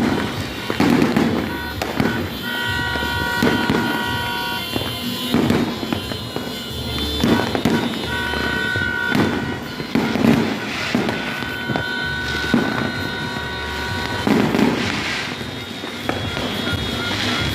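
Aerial fireworks going off in a steady series, one bang about every second or two, with some bangs doubling up.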